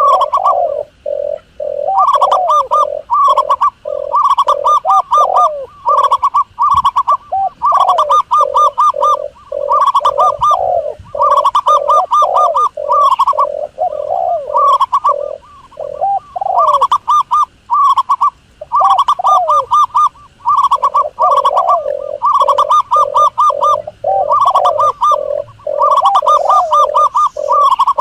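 Doves cooing: phrases about a second or two long, each made of rapid short notes, repeating almost without pause with brief gaps between phrases.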